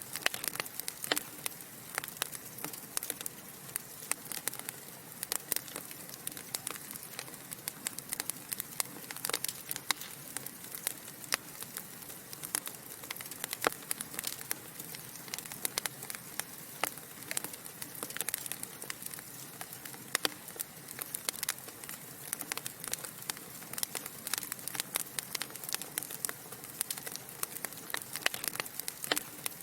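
Wood fire burning in a fireplace: a steady soft hiss with many sharp, irregular crackles and pops from the burning logs.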